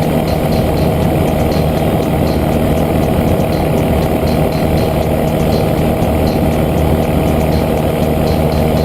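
A motor running steadily, a continuous drone with a steady hum that does not change.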